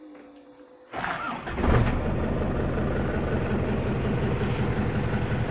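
Isuzu Panther's 2500 cc direct-injection diesel engine being started: the starter cranks about a second in, the engine catches half a second later and settles into a steady idle.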